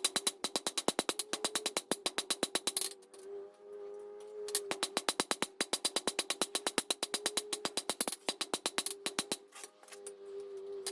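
Hand hammer striking hot steel on an anvil in rapid, even blows, about five a second, while the tong reins are drawn out, with two short pauses. A steady hum with a few overtones runs underneath.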